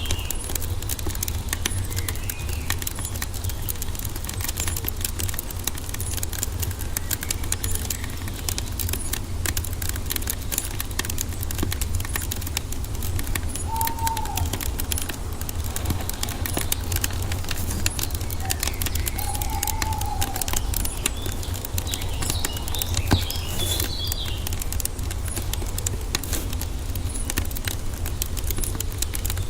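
Wood fire crackling with many small pops over a steady low rumble, while forest birds chirp now and then, with two short low bird calls about 14 and 20 seconds in.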